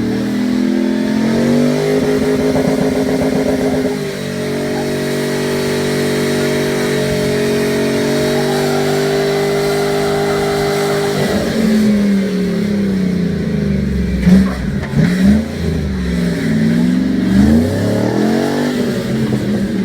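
Engine of a full-size Jeep J-series pickup crawling over rock: it holds a steady pitch for several seconds, then from about halfway is revved up and down repeatedly in short bursts under load.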